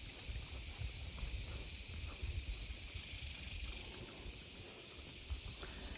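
Cicadas (called locusts here) droning, a steady high hiss, with a low rumble underneath.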